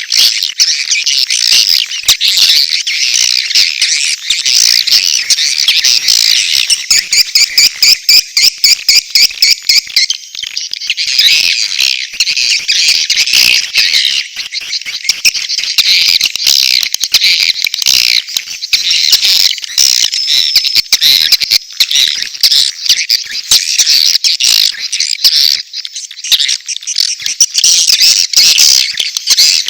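Edible-nest swiftlet calls: a dense, continuous chattering and twittering of many birds, with mating calls and chick calls mixed together, as used in a recorded lure call for swiftlet houses. About a quarter of the way in, a stretch of rapid, evenly spaced chirps stands out.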